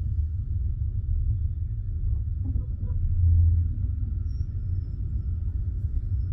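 Low, steady rumble of a passenger train at a station, heard from inside the carriage, swelling briefly about three seconds in.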